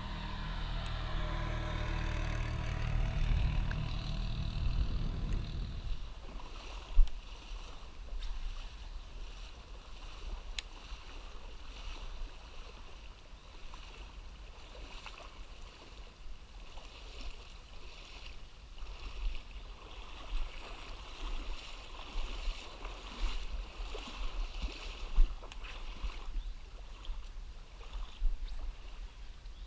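Small creek running, an even rush of moving water, with a few scattered sharp ticks. A low rumble underneath stops about six seconds in.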